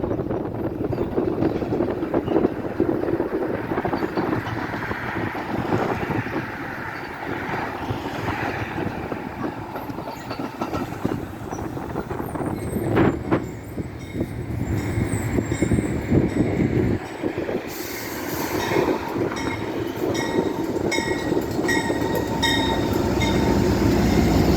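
Train passing on the rails: a steady rumble of wheels on track with scattered clicks, and faint high-pitched wheel squeal in the second half.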